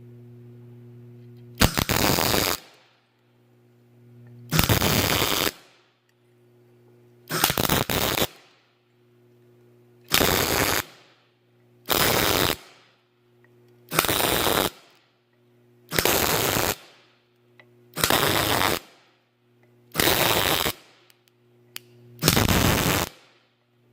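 MIG welder laying short dot welds on light angle iron and flat bar: ten crackling bursts of under a second each, about every two seconds, with the welder set fairly hot to burn into the metal. A steady low hum runs underneath.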